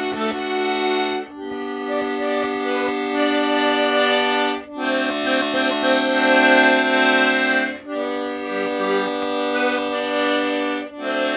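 Accordion playing long sustained chords, each held about three seconds, with a short break between chords.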